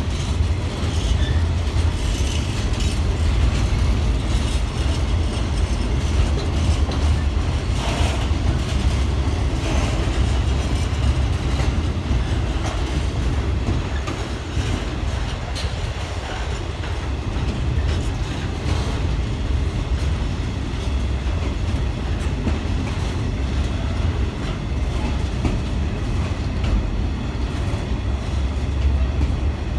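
Intermodal freight train of container flat wagons rolling slowly past, a steady low rumble with scattered clicks and clanks from the wheels and wagons.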